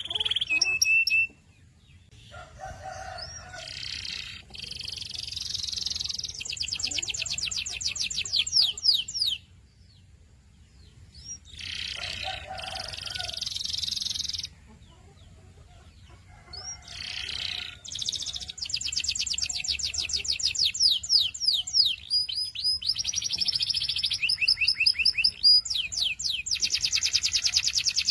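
Domestic canary singing: long phrases of fast, high trills of repeated notes, broken by two short pauses.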